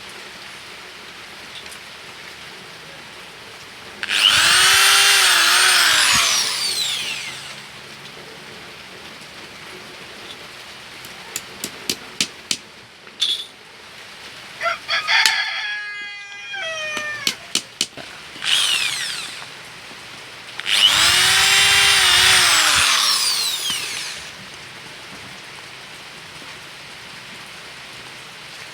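A rooster crowing twice, each crow about three seconds long and rising then falling in pitch, over a steady patter of rain. Between the crows come a few sharp taps and a short wavering whine.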